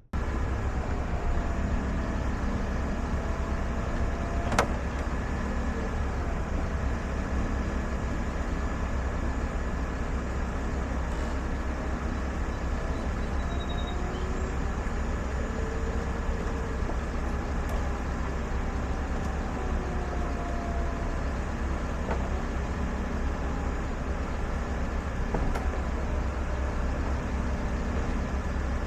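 2011 Volvo C70 T5's powered retractable hardtop cycling. Its motors whine in slow gliding tones over a steady low hum, with a sharp click about five seconds in and a few lighter clicks later.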